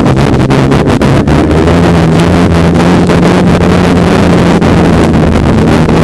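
Snowmobile engine running at steady speed, its pitch stepping up slightly about a second in, with heavy wind buffeting the microphone.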